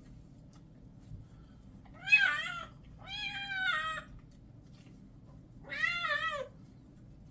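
Kitten meowing three times in protest at being bathed: two calls close together about two and three seconds in, the second the longest, and a third near the end with a wavering pitch.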